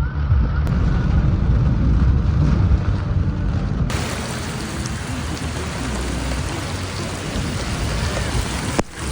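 Heavy rain pouring down as a steady hiss. For about the first four seconds a strong low rumble sits under it, then the sound changes abruptly to a brighter, even rain hiss.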